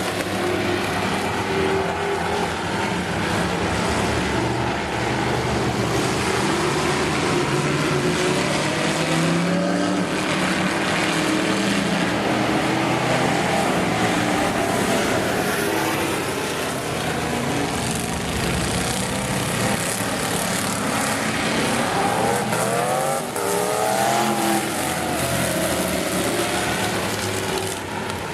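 Several demo race cars running together in a heat, a dense, continuous mix of engines with pitches rising and falling as the cars accelerate, lift and pass.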